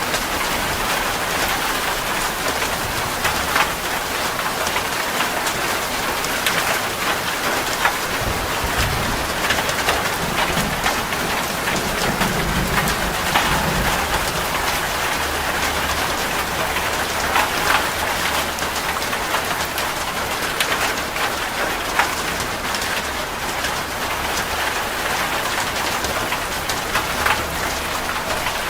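Steady rain falling on a hard surface, with many individual close drops ticking through the constant hiss. A low rumble comes and goes around the middle.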